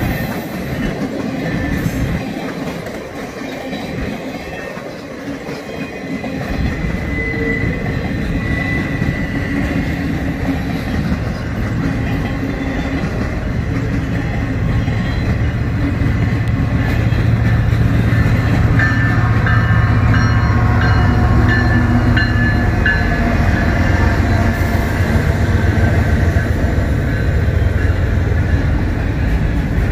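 Freight trains on the main line. A train's rumble fades a couple of seconds in. Then a double-stack container train comes by close: a low steady drone builds, wheels clack on the rails, and short high wheel squeals come about two-thirds of the way through.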